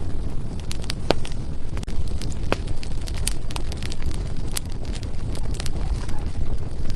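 Burning firewood crackling and popping, with irregular sharp snaps over a steady low rumble of the flames.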